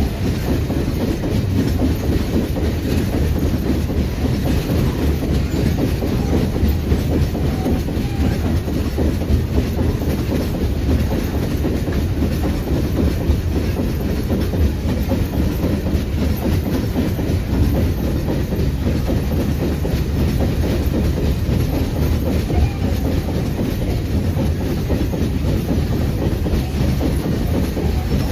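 A long freight train of heavy wagons rolling past at close range, with a steady deep rumble and a continuous rapid clatter of wheels on the rails.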